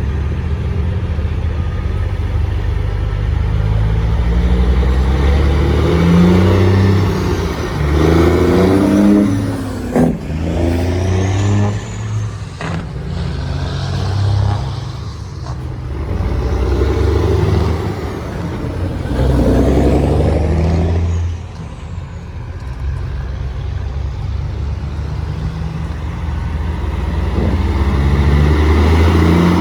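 Heavy truck diesel engines running and revving, their pitch rising and falling several times, with a few sharp knocks along the way.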